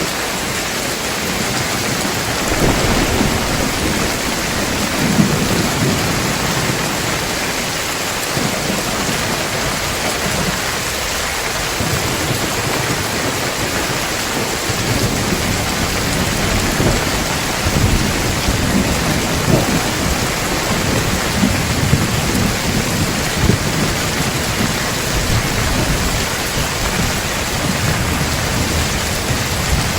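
Heavy rain falling steadily in a thunderstorm, with low rolling thunder rumbling in swells, strongest in the first few seconds and again through the middle to later part.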